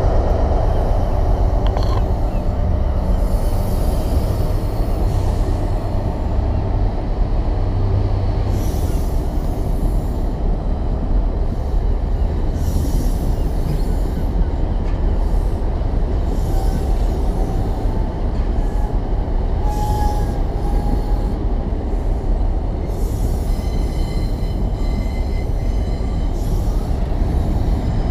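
Passenger train running past along the platform: a steady rumble of wheels on the rails.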